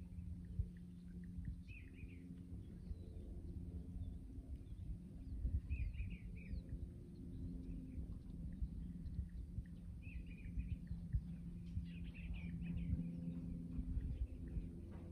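Small birds chirping in short bursts every few seconds, over a steady low hum and a low rumble.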